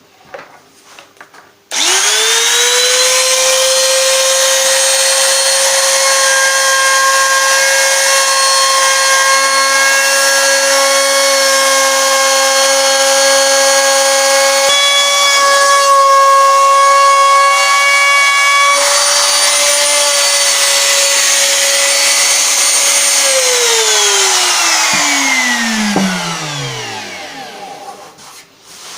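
Wood router with a round-over bit spinning up to a steady high whine and cutting the rounded edge of a wooden guitar body, the tone shifting slightly as it bites, then switched off and winding down over about three seconds.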